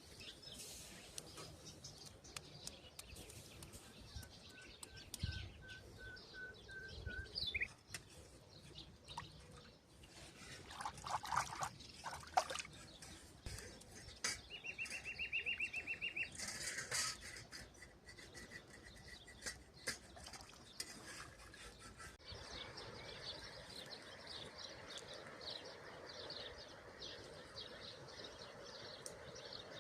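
Small birds chirping: a short series of about seven evenly spaced notes, then later a fast high trill, over scattered clicks and knocks. In the last third a quicker, steady rustling rhythm sets in.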